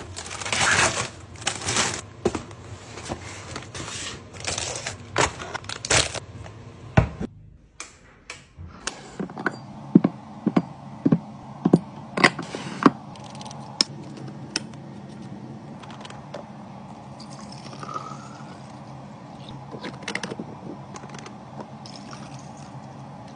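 Plastic packaging and containers being handled: dense rustling and crinkling for the first several seconds, then after a short break a string of sharp clicks and taps as containers are set down, thinning to only occasional clicks over a steady low background.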